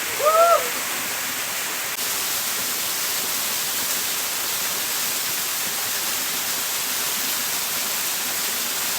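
Steady rushing of a waterfall, with a short voice-like call rising and falling just after the start.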